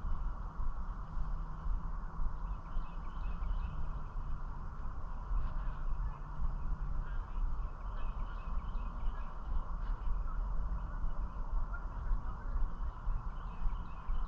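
Outdoor ambience on the water: scattered short bird calls over a steady low rumble.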